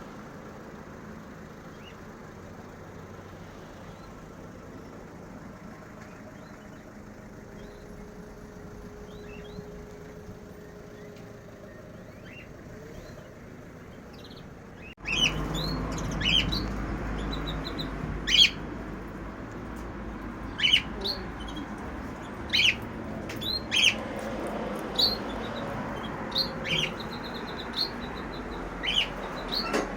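Caged birds chirping: faint at first over a steady background hum, then, after an abrupt jump about halfway in, louder with frequent short, sharp chirps.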